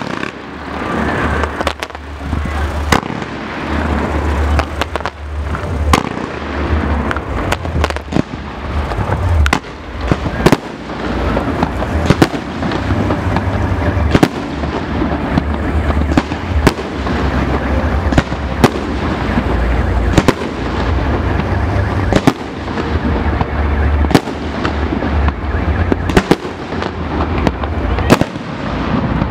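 Fireworks display: aerial shells bursting in a rapid, irregular series of sharp bangs, often several a second, over a continuous low rumble.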